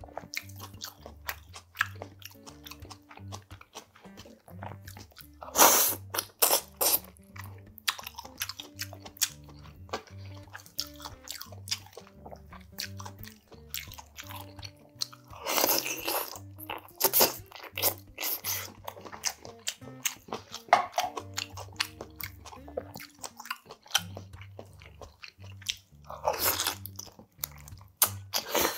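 Close-miked chewing and crunching of steamed spicy monkfish (agujjim) with its greens and sprouts, with louder stretches of bites about six, sixteen and twenty-six seconds in. Soft background music with low bass notes runs underneath.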